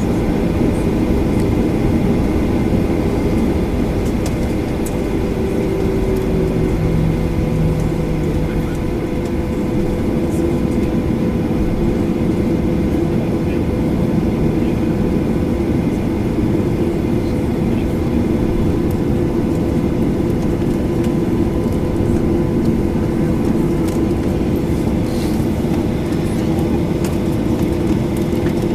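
Steady cabin noise inside a Boeing 737-800 on the ground before takeoff: a constant low rumble with a few steady hum tones above it.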